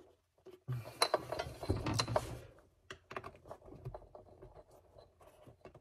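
Hands working a rubber dust sleeve onto the back of a plastic headlight housing: rubbing, scraping and clicking of rubber on plastic, busiest for about two seconds near the start, then scattered small clicks.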